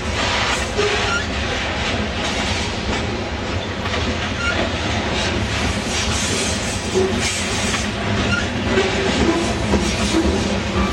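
Loaded covered hopper cars of a freight train rolling past: a steady rumble and clatter of steel wheels on the rails, with a few brief wheel squeals.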